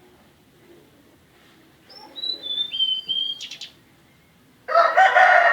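A tledekan gunung singing: about two seconds in, a run of clear whistled notes stepping down in pitch, ending in a short buzzy note. Near the end a rooster starts crowing, louder than the song.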